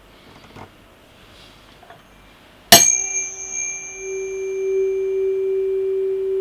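A few faint handling knocks, then a tuning fork struck sharply nearly three seconds in. It rings on as a single steady pure tone, with fainter higher overtones that die away within a few seconds. About a second after the strike the tone swells louder and holds, as the fork sounds over a glass resonance tube standing in water and the air column in the tube resonates with it.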